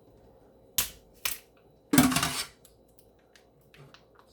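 Plastic wrapping being cut and pulled off a whole raw chicken: two short sharp clicks about a second in, then a louder rustling tear lasting about half a second, followed by faint small taps.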